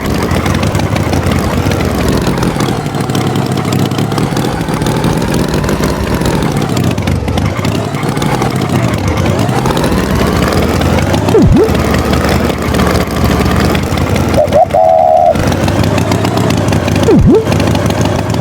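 Cartoon tractor engine sound effect running loudly, its pitch rising and falling, with a short high tone near the middle and a few brief falling whistle-like tones.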